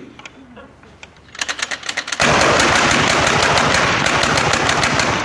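Hand-cranked Gatling gun firing. A quick string of shots starts about a second in and builds into a continuous rapid rattle of fire.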